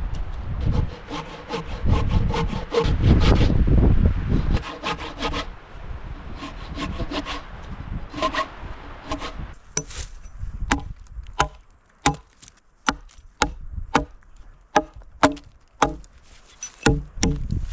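Hand saw cutting through wood in rhythmic back-and-forth strokes. About halfway through, the strokes become shorter and sharper, coming roughly every half second.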